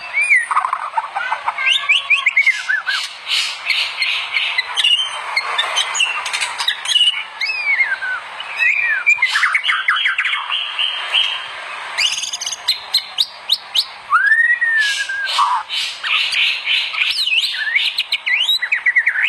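White-rumped shama (murai batu) singing a fast, varied song: rapid runs of repeated chattering notes mixed with clear sliding whistles, with hardly a pause.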